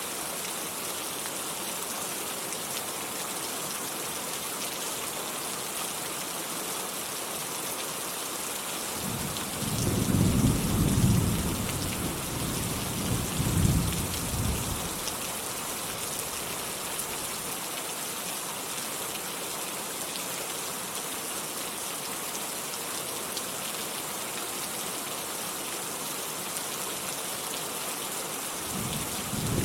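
Steady heavy rain falling, with a rolling thunderclap from about a third of the way in that swells twice over some six seconds before fading. A second roll of thunder begins near the end.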